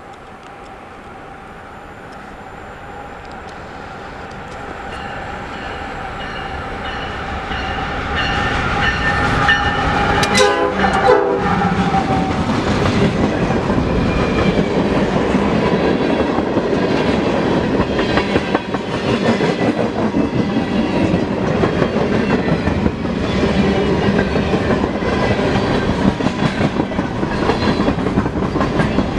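Canadian Pacific freight train approaching with its horn sounding, growing steadily louder. The locomotive passes about ten seconds in, and a long string of freight cars then rolls by with a rhythmic clickety-clack of wheels over the rail joints.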